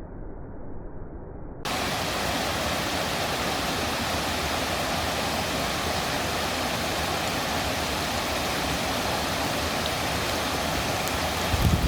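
Waterfall rushing in a steady, dense roar. For the first second and a half it sounds dull and muffled, then it cuts abruptly to the full, bright, louder rush. Low rumbling thumps come in near the end.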